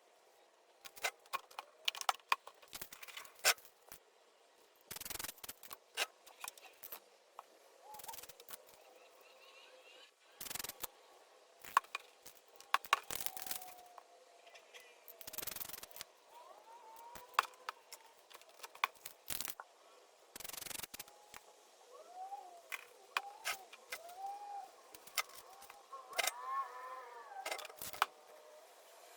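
Spray-paint cans hissing in short bursts, mixed with many clicks and taps of cans and tools being handled. A quick run of short squeaky chirps comes near the end.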